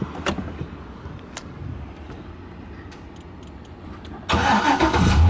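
2007 Corvette LS2 6.0-litre V8 engine starting: after a couple of faint clicks, it cranks and fires up at once about four seconds in, then runs.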